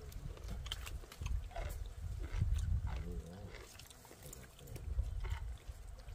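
Wet chewing, mouth smacking and slurping as raw, unwashed beef tripe is bitten and eaten, with many short clicks. A brief wavering low grunt comes about three seconds in, over a low rumble of wind on the microphone.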